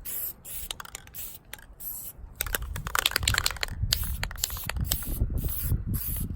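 Aerosol can of red spray paint hissing in repeated short bursts. From about two and a half seconds in, low rumbling and scattered knocks grow louder under the spraying.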